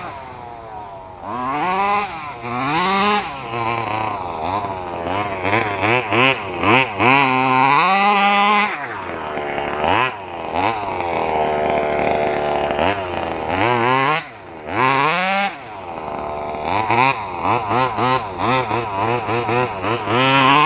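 1/5-scale FG RC truck's 32cc Robin two-stroke petrol engine revving up and down in repeated throttle bursts, falling back toward idle between them.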